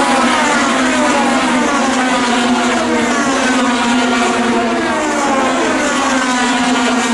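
IndyCar race cars' twin-turbo V6 engines running at speed, several at once, their pitch sliding slowly down as the cars go past.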